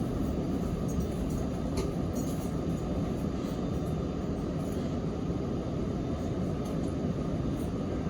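Sanyo Electric Railway 3050-series commuter train running, heard inside the passenger car: a steady rumble of wheels on rails with faint light clicks.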